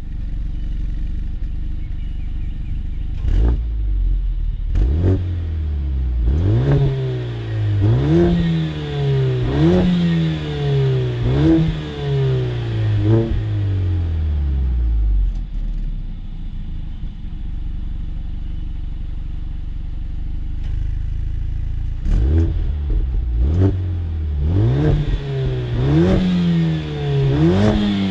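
Mercedes-AMG A45 S 2.0-litre turbo four-cylinder accelerating at full throttle from a low steady run. Engine pitch climbs and drops back at each quick dual-clutch upshift, with a sharp crack at every shift, six or so in a row. About fifteen seconds in it eases off and runs steadily, then accelerates hard again through several more upshifts near the end.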